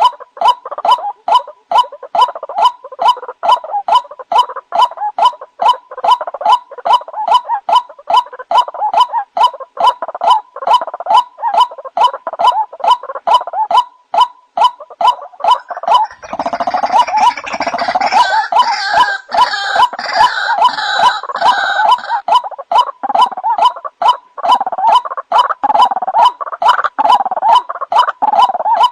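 White-breasted waterhen (ruak-ruak) calling, a lure recording of its rapid, repeated croaking "kru-wok" calls at about three a second. About halfway through the calls grow fuller and denser for several seconds.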